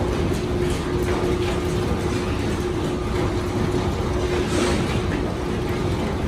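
Heavy diesel mining machinery running steadily with a low hum, with scattered metallic clanks and knocks over the rumble.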